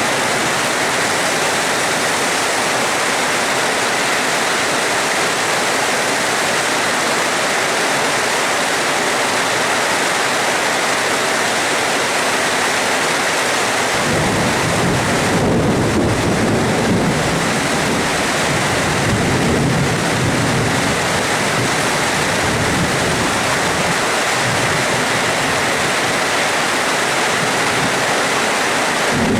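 Steady, heavy rain falling. About halfway through, a low rumble of thunder rolls in beneath it.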